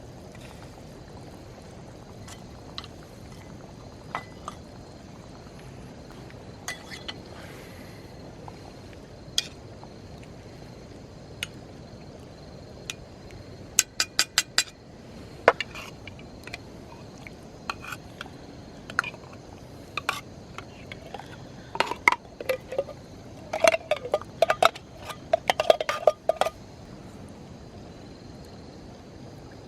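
Metal cookware and utensils clinking, scattered at first, then a quick run of clicks and a busy spell of ringing clinks near the end, over a steady background rush.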